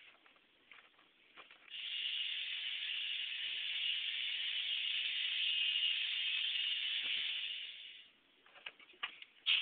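Electric drive of a homemade K'nex RC truck running, a steady whirring hiss that starts about two seconds in and stops about two seconds before the end, with a few light clicks around it.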